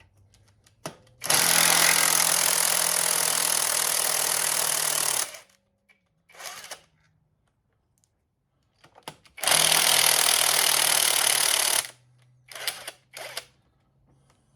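Cordless impact wrench hammering manifold bolts loose on an engine, in two long runs of about four and two and a half seconds, with short blips after each.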